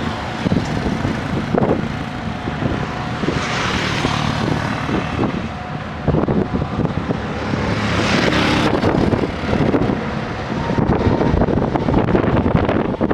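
SANY SAG160-5 motor grader's diesel engine running steadily while grading soil, with two swells of hiss about four and eight seconds in.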